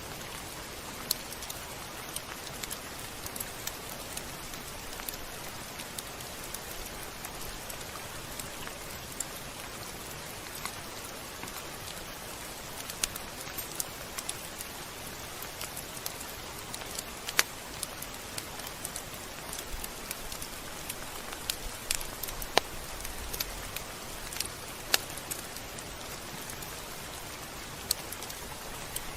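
Steady rain: an even hiss with scattered sharp drops striking a surface.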